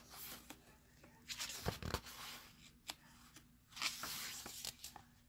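Paper pages of a picture book rustling and crinkling as they are handled and turned, in three short spells, with a soft low bump about two seconds in.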